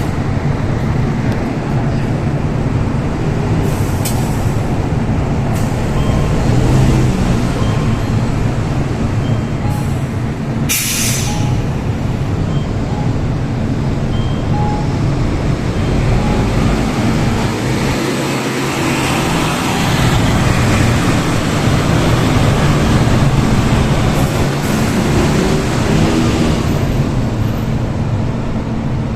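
Hino Blue Ribbon non-step bus's diesel engine running steadily at idle, with a short sharp hiss of released air about eleven seconds in.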